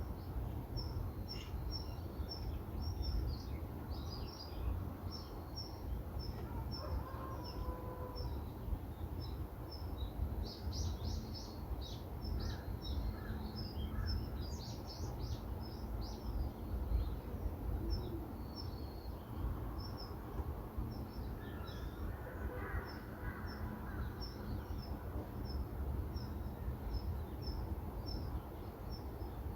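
Small birds chirping: one repeats a short high chirp about two or three times a second, and several others join in with quick chirps in the middle. A steady low rumble runs underneath.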